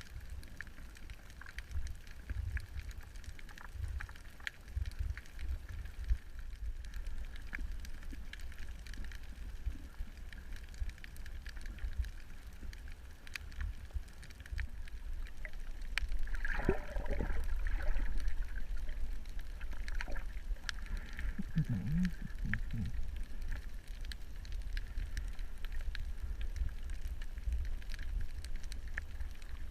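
Underwater ambience picked up by a submerged camera: a steady low rumble with many scattered sharp clicks, and a louder rushing surge about sixteen seconds in.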